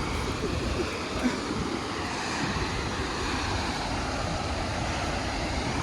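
Waterfall's water rushing: a steady noise with a deep rumble underneath.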